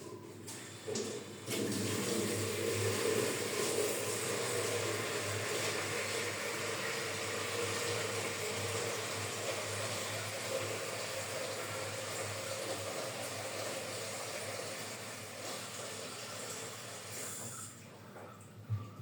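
Water running steadily, set off by a couple of knocks, then tapering off near the end.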